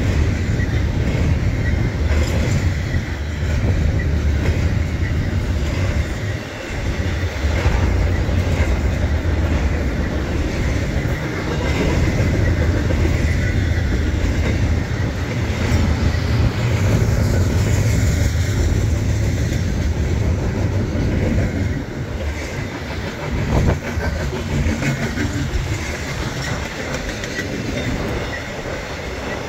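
Intermodal freight train cars rolling past: a steady low rumble of steel wheels on rail, with repeated clacking as the wheels pass over the track.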